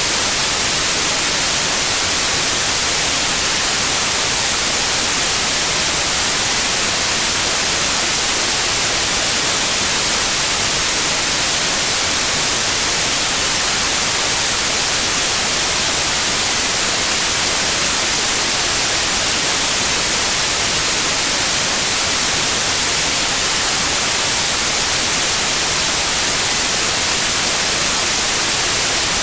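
Synthetic white noise with a steady, high-pitched 9645 Hz pure tone over it, a tinnitus sound-therapy signal. The tone breaks off for a moment about eighteen seconds in, while the hiss carries on unchanged.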